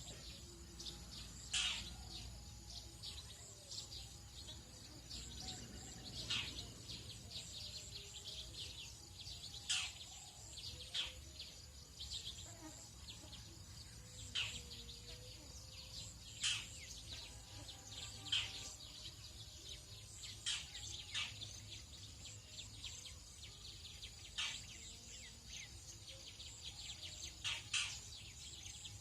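Tropical dawn chorus: short bird calls and chirps every second or two, over a steady high insect drone.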